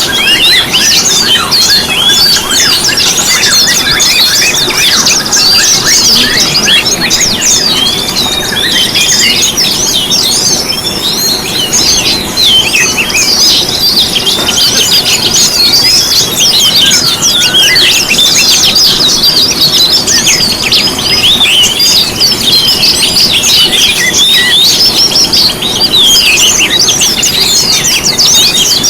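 Dense, overlapping chorus of many songbirds chirping and trilling rapidly without a break: a lure-song mix of white-eyes, oriental magpie-robin, sunbirds, canaries, white-rumped shama and greater green leafbird.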